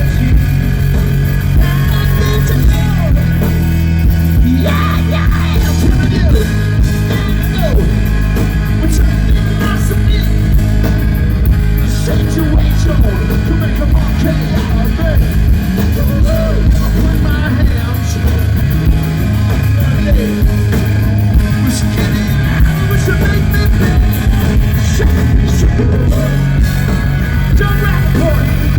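Live hard rock band playing loud: distorted electric guitar, bass and drums.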